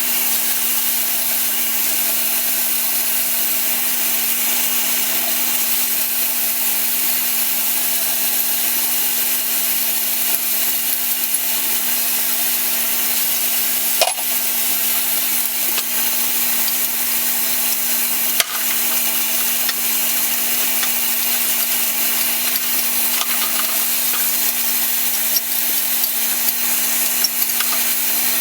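A power tool or machine runs steadily with a continuous hiss and a constant hum. There are a few sharp clicks, one about halfway through and another a few seconds later.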